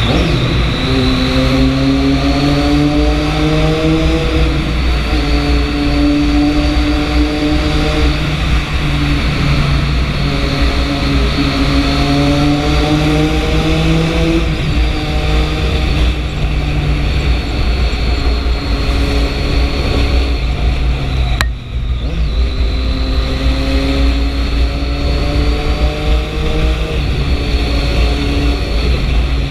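Triumph 675 inline three-cylinder motorcycle engine accelerating through the gears. Its pitch climbs, then steps down at each upshift, again and again, with a brief break in the sound about three quarters of the way through.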